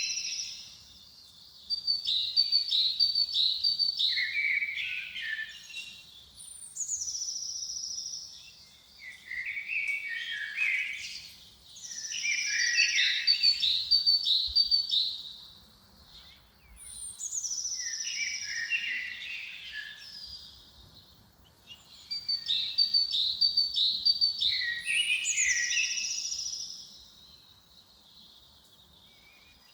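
A songbird singing in repeated phrases of a few seconds each, about five in all with short pauses between. Each phrase opens with a high falling note, then runs into quick chirping notes and lower warbles.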